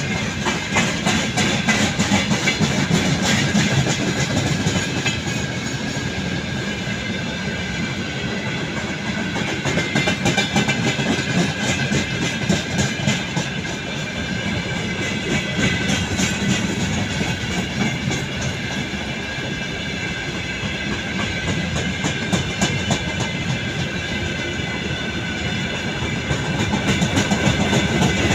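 Freight train wagons (tank cars, boxcars and gondolas) rolling past close by at speed: a continuous rumble and clatter of wheels over the rail joints, with a steady high-pitched whine running through it. The loudness swells and eases a few times as the wagons go by.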